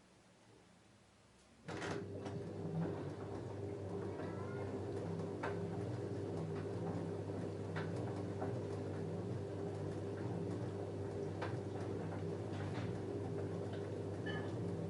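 LG F10A8HDS5 front-loading washing machine starting up again abruptly about two seconds in, then running with a steady hum and scattered light clicks.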